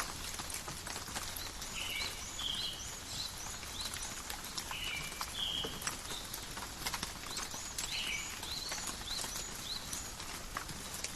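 Steady rain falling in a forest, with close drops ticking irregularly. A bird gives short calls every couple of seconds, with quick higher chirps between them.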